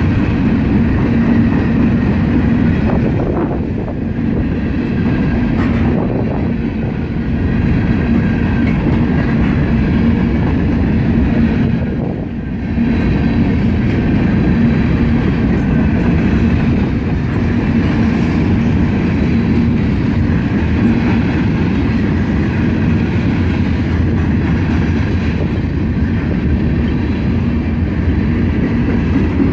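Norfolk Southern mixed freight train's hopper and tank cars rolling past at the crossing: a loud, steady rumble of steel wheels on rail.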